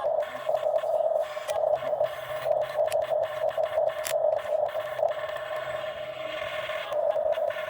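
Excavator working: a steady mechanical whine that swells and dips irregularly, with a few short clicks.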